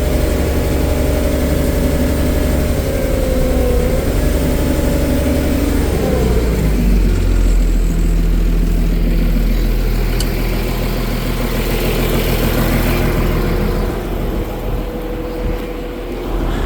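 Taylor forklift's diesel engine running, its pitch rising and falling over the first few seconds, then settling into a steadier, lower run about six seconds in.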